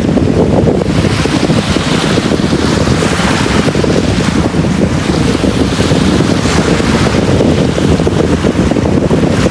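Sea waves washing onto a beach: a continuous rush of surf that swells and eases every second or two, over a low rumble of wind.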